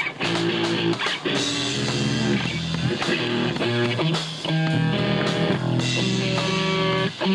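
Live punk rock band playing: distorted electric guitar chords changing every second or so over bass and drums.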